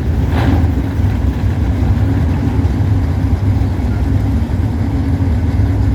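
Drag-racing cars' engines running at idle, a loud, steady low rumble with no revving.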